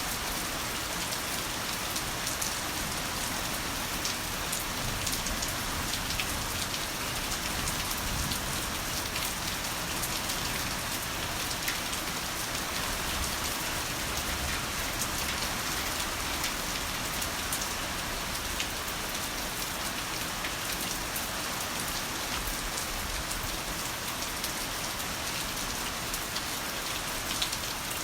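Heavy rain falling steadily, a dense even hiss with many separate drops ticking on a surface close by.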